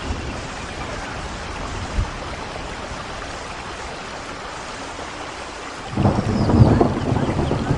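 Steady rain, joined about six seconds in by a sudden, loud roll of thunder rumbling to the end.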